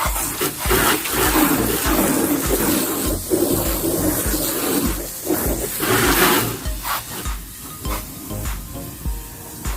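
Water spraying and splashing from a car-wash spray wand, over background music with a steady beat.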